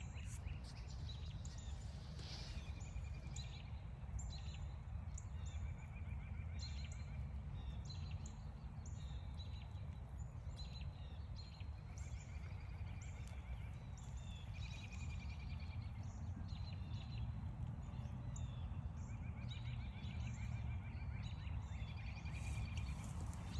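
Several wild birds calling and singing: many short, high, down-slurred calls keep repeating, with a one-second trill every few seconds. A steady low rumble runs underneath.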